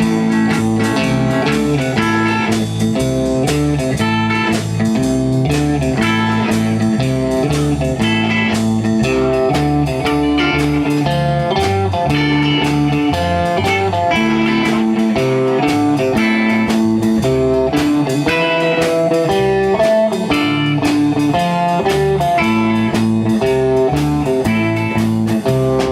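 A band playing an instrumental break led by guitar, in a slow blues-tinged style, with no vocals.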